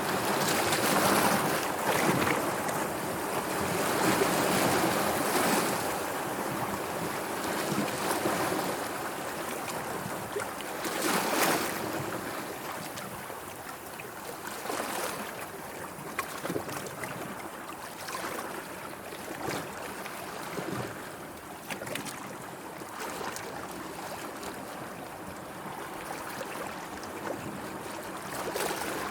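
Sea waves washing in, swelling and easing every few seconds, louder in the first dozen seconds with a surge about eleven seconds in.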